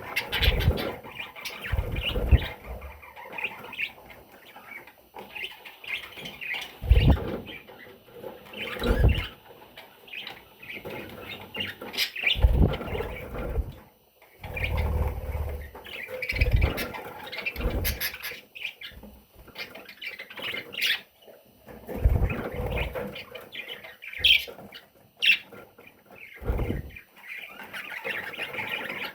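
Budgerigar chicks chirping, many short high calls, with irregular low thumps and rustles from the birds moving about.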